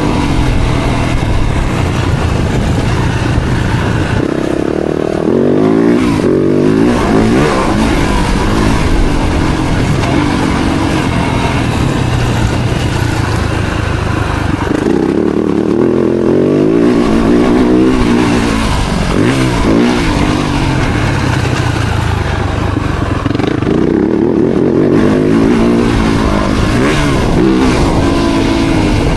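Four-stroke Yamaha motocross bike engine being ridden hard, its pitch rising and falling again and again as the throttle is opened and closed.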